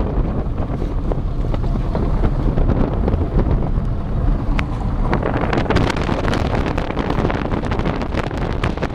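Wind buffeting the microphone: a steady low rumble, joined about five seconds in by a dense crackle.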